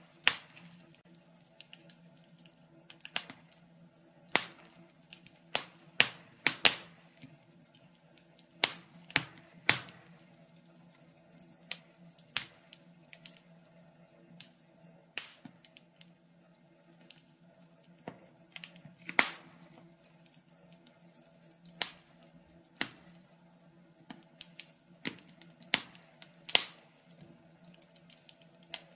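Wood fire crackling in a fireplace: irregular sharp pops, about one or two a second, some much louder than others, over a faint steady hum.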